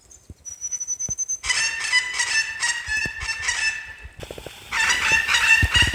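Birds calling: a single thin high whistle, then long runs of harsh, rapidly repeated calls with a short break in between.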